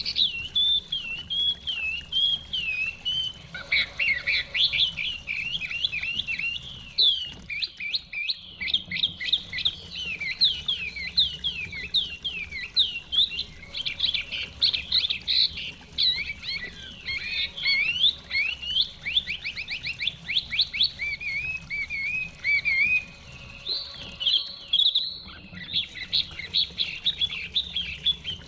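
Chinese hwamei singing a long, nearly unbroken song of rapid whistled notes that slide up and down.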